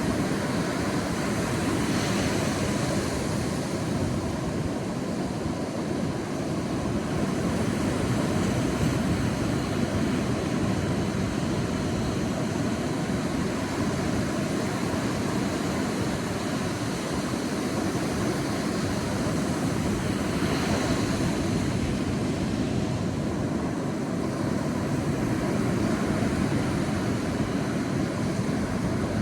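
Sea waves breaking on a beach: a continuous surf rush, with a wave washing in louder about two seconds in and again about twenty seconds in.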